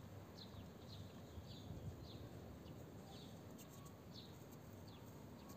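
Faint bird chirps: short, falling notes repeated about twice a second over quiet outdoor background.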